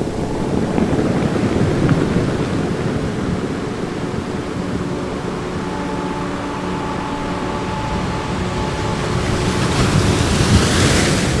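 Ocean surf washing in, swelling about two seconds in and again near the end as waves break. Faint held tones of a soft ambient music drone run underneath.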